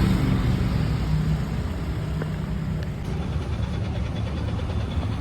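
Car engine and road noise: a steady low rumble and hum.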